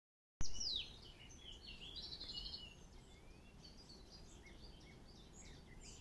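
Several songbirds singing and chirping, a quick repeated trill about two seconds in, over a steady low background rumble.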